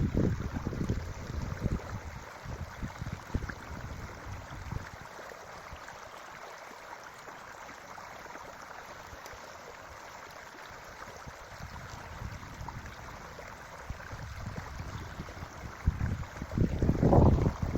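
Creek water flowing with a steady rushing hiss. Wind buffets the microphone with low rumbling gusts in the first few seconds and again near the end.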